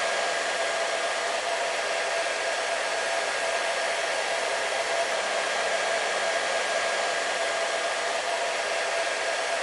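Hair dryer running steadily: an even rushing of air with a constant hum from its motor.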